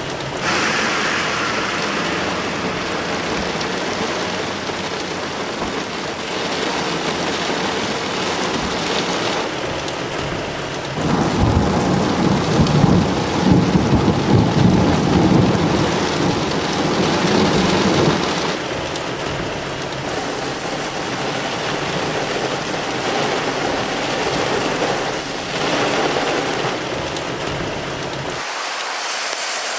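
Heavy downpour of rain, a steady loud hiss of water. About eleven seconds in, a low rolling rumble of thunder joins it for several seconds.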